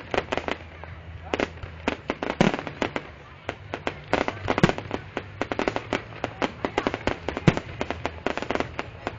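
Fireworks going off in rapid, irregular succession: many sharp cracks and pops, with a few louder bangs standing out, about two and a half, four and a half and seven and a half seconds in.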